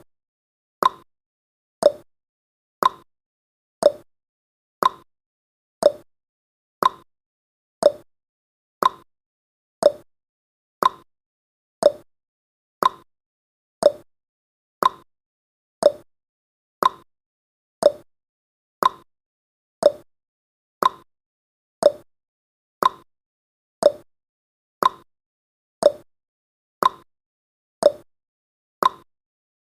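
Clock ticking sound effect marking a countdown timer's seconds: one short sharp tick each second, evenly spaced.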